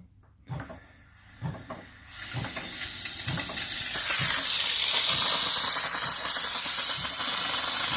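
Steam hissing from a steam generator as its steam is let out to fill a model steam locomotive's boiler: it starts about two seconds in, swells, and from halfway on holds loud and steady. A few faint knocks come before it.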